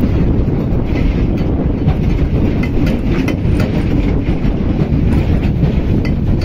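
Train running along the track, heard from on board: a steady rumble of wheels on rails with scattered clicks from the rail joints.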